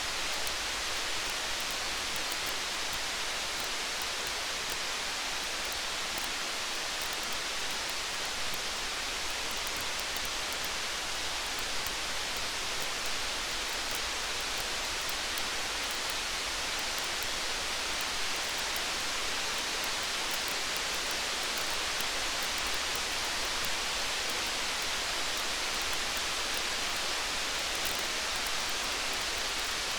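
Steady rain, an even hiss with no let-up, with faint small ticks scattered through it.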